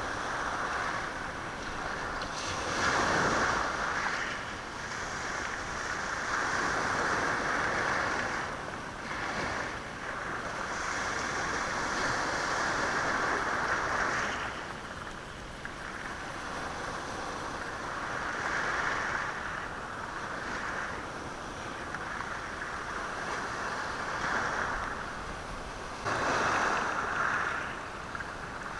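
Sea waves washing over a rocky, stony shore, rising and falling in surges every few seconds, the water rattling the stones.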